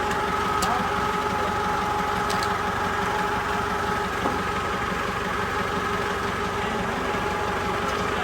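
A motor or engine runs steadily with an even hum, and a couple of faint clicks can be heard.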